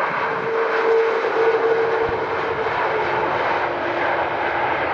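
Jet airliner's engines passing by, a loud rushing noise carrying a steady whine that drifts slightly lower in pitch.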